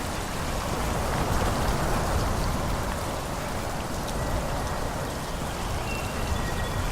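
Wind blowing through forest trees: a steady, rushing hiss of leaves with a low rumble underneath. A few faint thin high tones come in during the second half.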